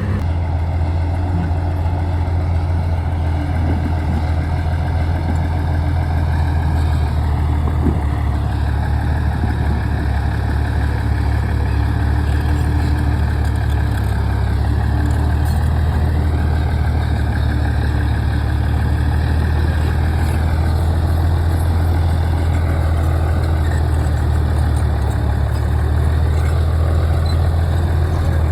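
Heavy bulldozer diesel engine running steadily at a low drone, its pitch dipping briefly a few times.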